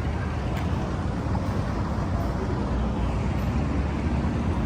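Dirt bike engine running steadily while riding, a continuous low rumble.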